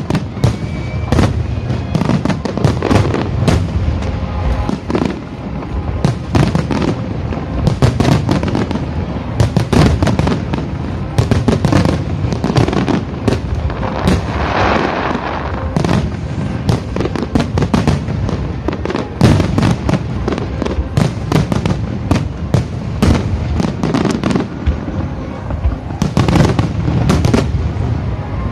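Starmine fireworks barrage: shells bursting in rapid, overlapping succession, a dense run of bangs and pops, with a thicker crackling stretch about halfway through.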